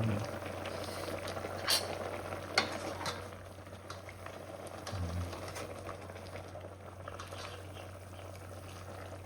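Food bubbling and sizzling in a pot over a fire, with a few sharp clicks and knocks of a utensil against the pot, the loudest right at the end.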